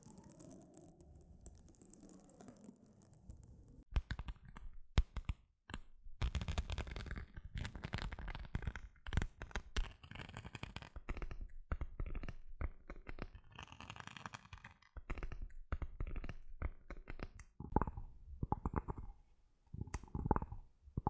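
Close-miked tapping and scratching on objects. About four seconds in it starts as rapid, irregular clicks and scrapes, and near the end it turns into a slower run of dull, resonant taps.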